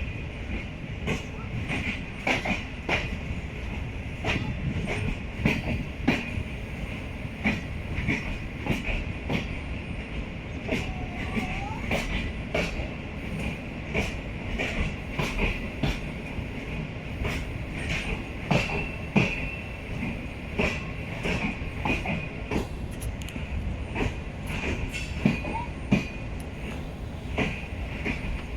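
Passenger train rolling on the rails: a steady low rumble with irregular clicks and clatter of the wheels over rail joints and points, and a steady high wheel squeal.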